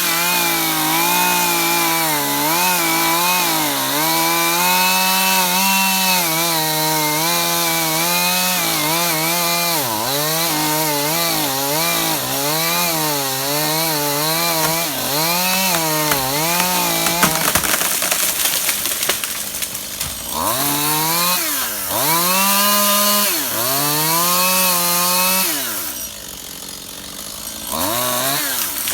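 Stihl two-stroke chainsaw cutting a tree branch, the engine revving high and dipping again and again as the chain bites into the wood. About two-thirds through, its steady note gives way to a rough crackling noise. It then revs in a few short bursts and drops to idle near the end, with one last quick rev.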